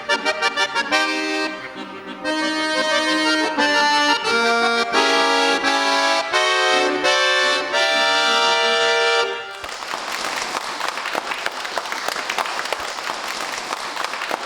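Bayan (Russian button accordion) playing the end of a pop-song arrangement: quick short notes, then held chords that stop about nine and a half seconds in, followed by audience applause.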